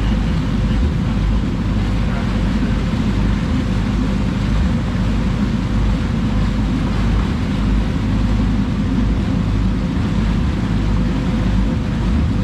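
Boat engine running steadily under way, with a constant low drone and a thin steady whine above it, over the hiss of water and wind.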